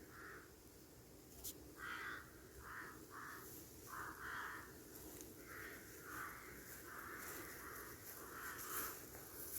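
Crow cawing, a long run of short harsh caws about two a second.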